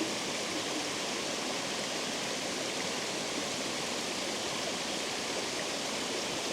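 Water rushing over a spillway: a steady, even rush with no breaks.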